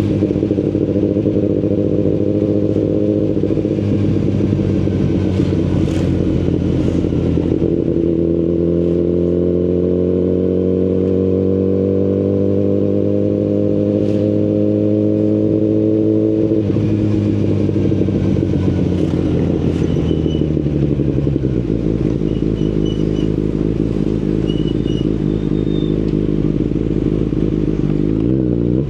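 Kawasaki Ninja ZX-10RR's inline-four engine through an Akrapovic carbon full-system exhaust, running on the road with its pitch slowly rising for several seconds. About sixteen seconds in the engine note drops off sharply and keeps falling, then settles at a lower steady pitch.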